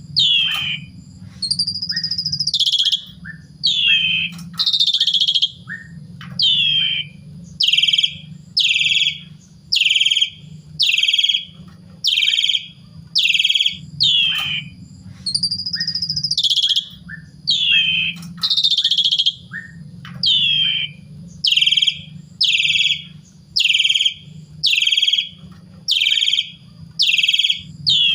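Asian pied starling (jalak suren) calling over and over, a loud, rough note about once a second, with now and then a longer whistled slur, over a low, steady hum.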